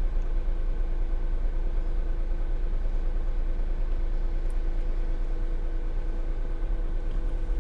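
Kia Ray's engine idling, heard from inside the cabin: a steady low rumble with a faint, even hum over it.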